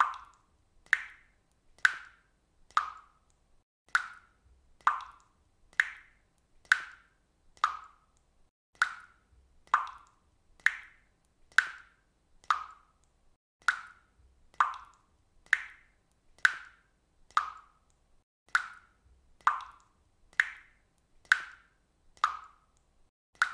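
Water dripping from a faucet, one drop about every second in a steady, even rhythm, each a sharp plop that fades quickly.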